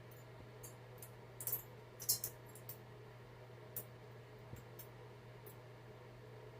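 Small parrots' beaks crunching treats: scattered sharp, high clicks and crackles, the loudest clusters about one and a half and two seconds in, with a few single ticks later, over a steady low hum.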